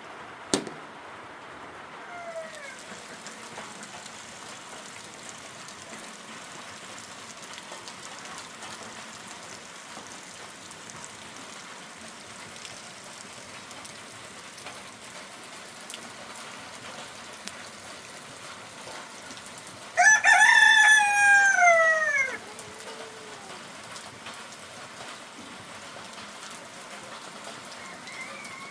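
A rooster crows once, loud and about two seconds long, sliding down in pitch at the end, over a steady hiss of rain. A sharp click sounds just after the start.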